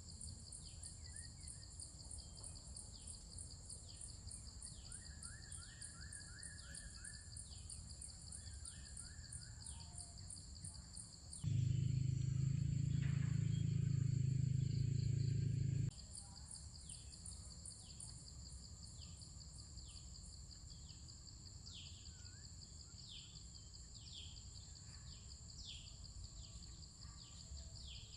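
Insects chirring in steady high tones, with short falling chirps about once a second and a brief rattling trill from birds or insects. For about four seconds in the middle, a louder low hum takes over.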